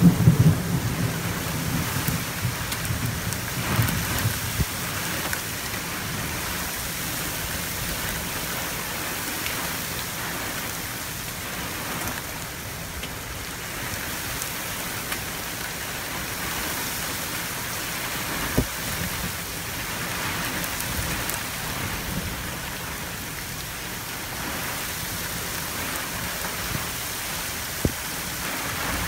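Heavy wind-driven rain pouring onto open desert ground, a steady hiss. There is a low rumble in the first second, and two sharp ticks come later on.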